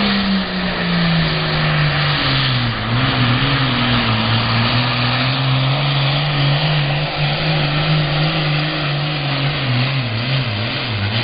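Super farm class John Deere 7820 tractor's diesel engine running hard under full load on a pull. Its pitch drops about two and a half seconds in as the sled bears down, holds, then sags again near the end.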